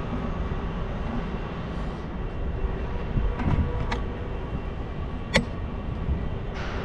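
Steady low rumble of wind and road noise while riding a bicycle through city streets, with a few short clicks and one sharp, louder click about five seconds in.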